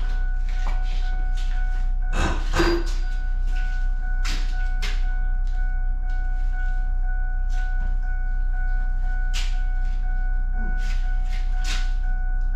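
A steady mechanical hum with a constant high whine, running unchanged throughout, with scattered clicks and knocks of tools and metal parts and a louder clatter about two seconds in.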